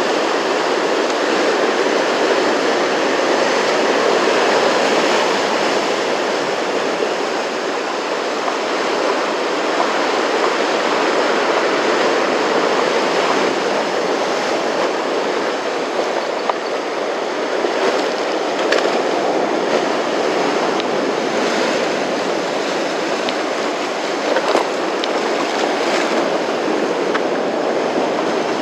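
Rough, typhoon-churned sea: a steady rush of surf washing and breaking, with a few faint ticks in the second half.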